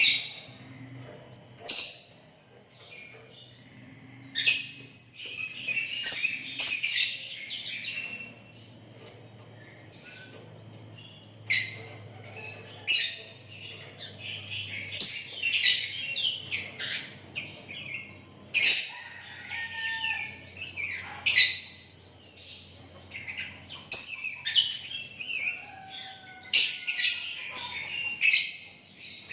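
Sooty-headed bulbul (kutilang) singing, giving short bright whistled phrases and chattering calls one after another.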